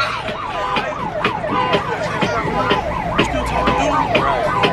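A siren in a fast yelp, its pitch sweeping up and down about three times a second, with sharp clicks and knocks over it.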